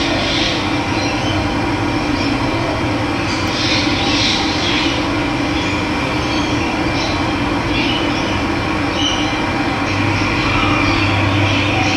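Running water rushing steadily, with birds calling now and then over it in short high chirps.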